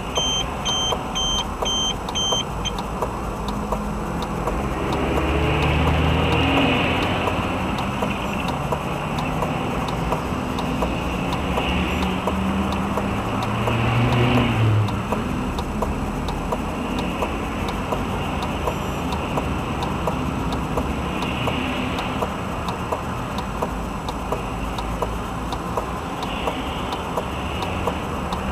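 A car's engine and road noise heard from inside the vehicle, steady, with a couple of swells as it speeds up. A high electronic beeping repeats a few times a second for the first two to three seconds and then stops.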